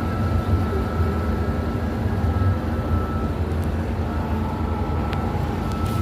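Steady low rumble of a running vehicle, with a faint constant high whine and a few light clicks near the end.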